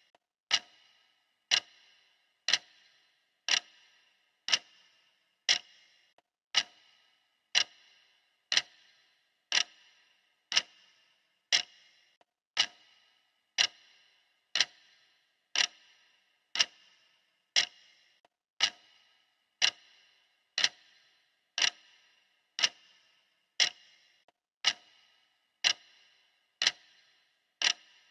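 Clock ticking steadily, one sharp tick each second, each with a short ring.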